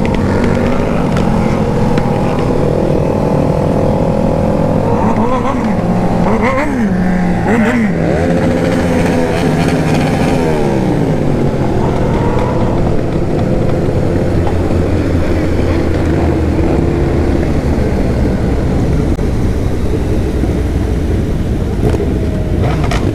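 Sport motorcycle engines running in a group, with quick revs rising and falling in pitch a few seconds in, then several engine notes sliding down as the bikes ease off or pass.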